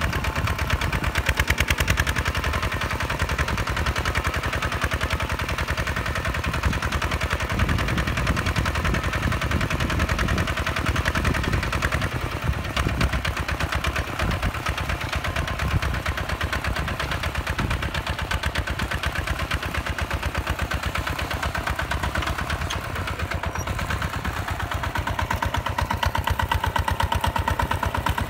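Hinota HG Gold 155 DI tractor's single-cylinder diesel engine running with a rapid, even chugging beat, a little louder near the end.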